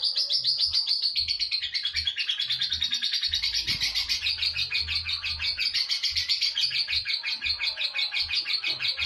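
Lovebird giving its long ngekek call: a fast, unbroken rattling chatter of sharp high chirps, held without a break.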